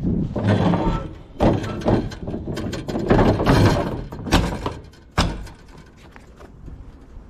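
Loud mechanical clattering and rattling with several sharp knocks, dying down about six seconds in.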